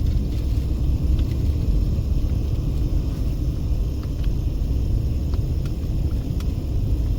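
Steady low rumble of a car driving along a winding road, heard from inside the cabin as tyre and road noise, with a few faint ticks scattered through it.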